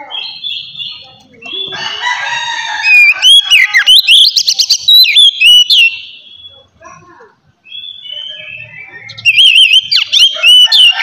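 Oriental magpie-robin (kacer) singing loudly: clear whistled notes that slide up and down mixed with quick chattering phrases, in two bouts with a quieter pause in the middle.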